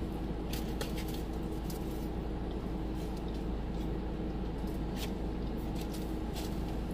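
Steady car-cabin noise: a low rumble with a faint steady hum, broken by scattered small clicks and crinkles from eating.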